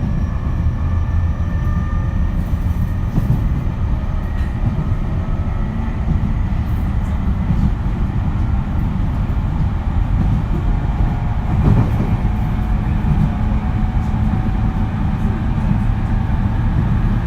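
Onboard running sound of a JR East E231 series electric train: a steady low rumble of wheels and bogies on the rails at speed, with faint VVVF inverter and traction-motor whines above it. There is a brief louder knock about twelve seconds in.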